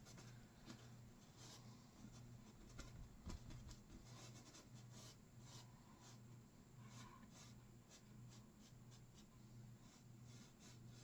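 Faint, irregular scratching of a paintbrush pushed hard through wet oil paint, over a low steady hum.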